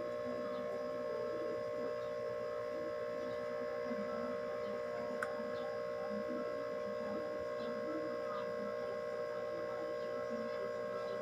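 Steady electrical hum, with a faint click about five seconds in.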